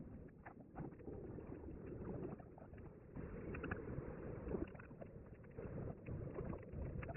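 Wood campfire crackling, with small irregular pops over a low rumble.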